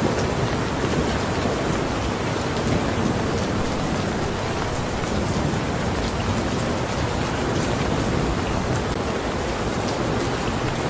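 Steady heavy rain falling on surfaces, with scattered sharp drop ticks over a low rumble.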